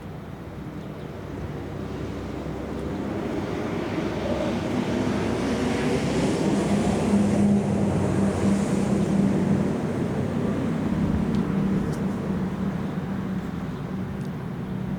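A passing engine-driven vehicle: a steady low drone with a rushing noise that swells over about seven seconds, peaks, then slowly fades.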